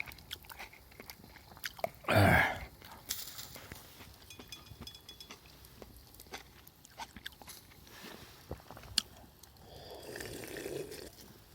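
A person eating and chewing food, with scattered light clicks and one louder short sound about two seconds in.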